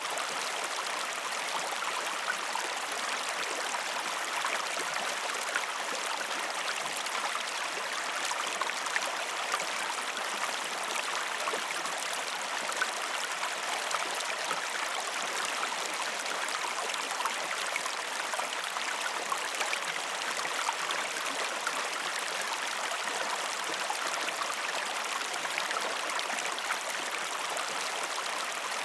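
Waterfall: water pouring and splashing in a steady, even rush, mostly hiss with almost no low rumble, dotted with many small splashes.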